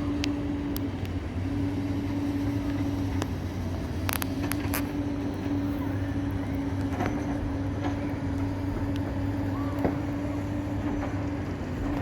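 A steady engine drone with a low rumble and a constant hum that drops out briefly now and then, and a few sharp clicks about four seconds in.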